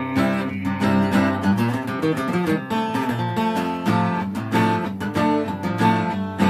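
Acoustic guitar strummed in a steady rhythm, playing an instrumental break between sung verses of a country-style ballad.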